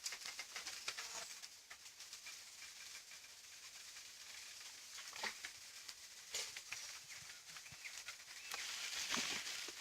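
Small campfire of straw and dry twigs burning, a steady crackling hiss with scattered sharp pops. It grows louder and more hissing near the end.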